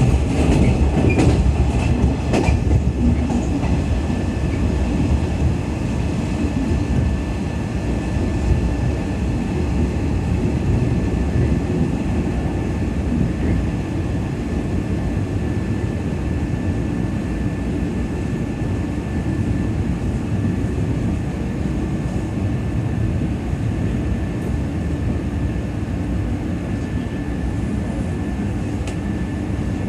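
Running noise heard inside a JNR 113 series electric train: a steady rumble of wheels on rail with a few rail-joint clicks in the first seconds and a thin, steady high-pitched squeal over it. The sound grows gradually quieter as the train slows for its station stop.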